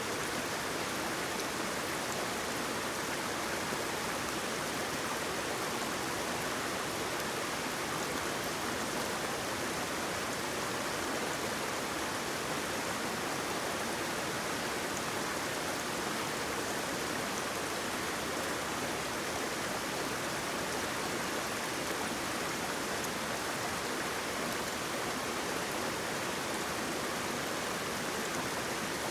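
Waterfall: falling water making a steady, even rushing sound with no change in level.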